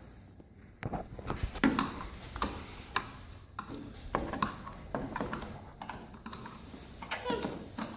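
Hand tools clinking, tapping and scraping against metal in irregular knocks and clicks as someone works on a utility vehicle.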